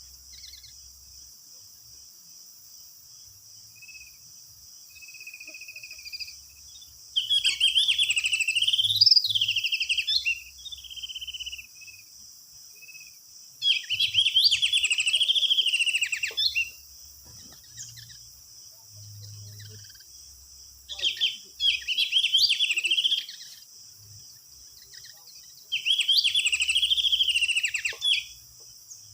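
White-eyes (pleci) singing in four bursts of rapid warbling song, each two to three seconds long, with quiet gaps between them.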